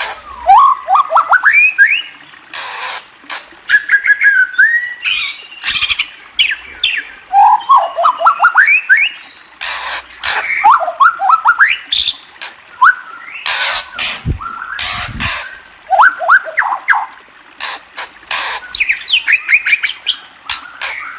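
A bird chirping in runs of quick rising notes, several runs over the stretch, broken up by short harsh noisy bursts.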